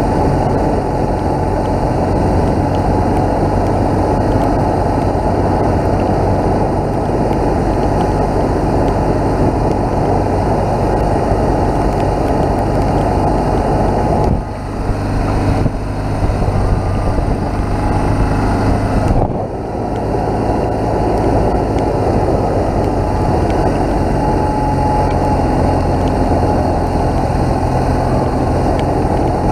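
BMW R1200GS boxer-twin engine running steadily while under way. Its sound drops briefly twice, a little past the middle.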